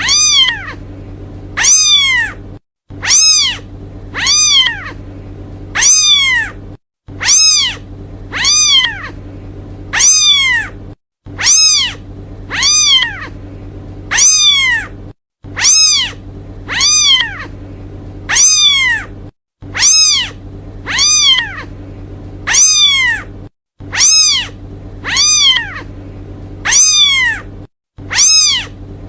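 A kitten meowing over and over, calling for its mother: high-pitched meows about one a second, each rising then falling in pitch. A low steady hum runs beneath.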